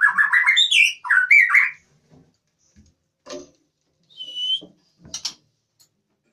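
White-rumped shama squawking loudly in quick, harsh, warbling calls for about the first two seconds, an agitated bird. Then a few faint clicks and one short high chirp.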